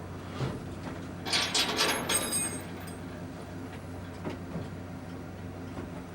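A burst of metallic rattling and clanking about a second in, with some ringing high tones, over a steady low hum.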